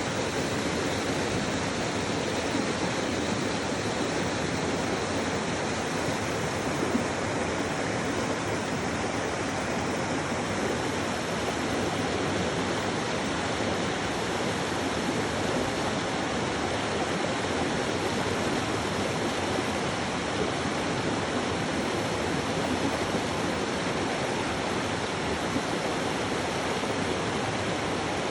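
Rushing water running steadily and evenly with no breaks, as of a stream or cascade, with a faint high steady tone above it.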